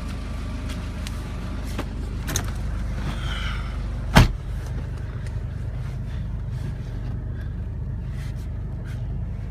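Toyota Land Cruiser Prado's 1KZ-TE 3.0-litre turbo-diesel idling steadily just after being started, with one sharp loud knock about four seconds in.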